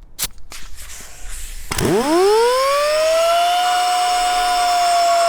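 Pneumatic angle grinder with a milling disc starting up: a few clicks, then a little under two seconds in the air motor spins up in a fast-rising whine that levels off into a steady high whine.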